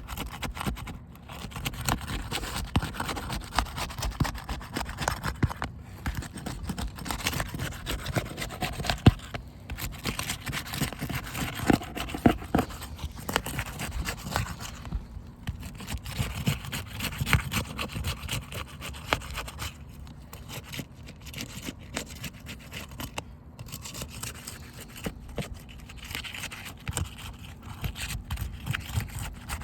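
A roofing pry tool scraping and working under asphalt shingle tabs to break their adhesive seals, with irregular scraping strokes and small crackling clicks from the brittle shingles.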